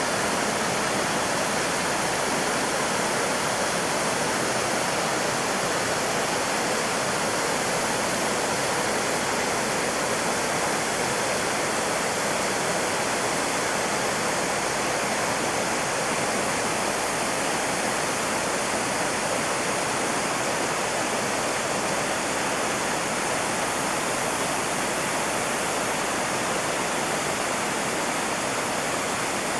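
Mountain stream rushing over rocks, a steady, unbroken roar of water.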